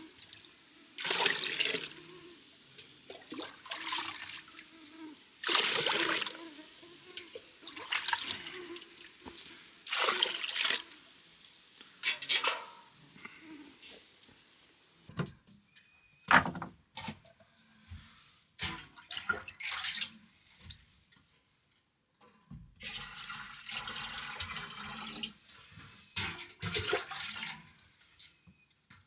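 Water splashing and pouring as water is drawn from a well, in short bursts about every two seconds. These are followed by a few sharp clicks and knocks, then a longer pour of several seconds near the end.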